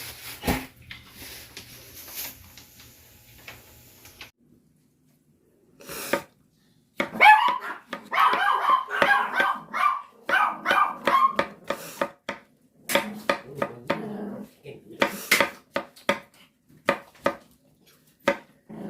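A dog barking repeatedly, with a run of sharp clicks and knocks in the second half.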